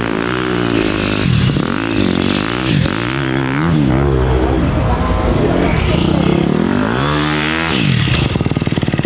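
Dirt bike engine revved up and down several times in quick blips, then settling to a fast, even putter near the end.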